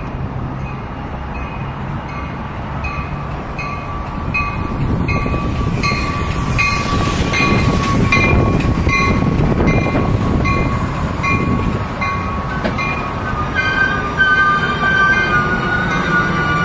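Metra commuter train of stainless-steel bilevel cars pulling into the station and rolling past close by, its wheels rumbling louder as the cars go by. A bell rings at an even beat throughout, and a high metallic squeal runs under it, rising in pitch near the end as the train slows.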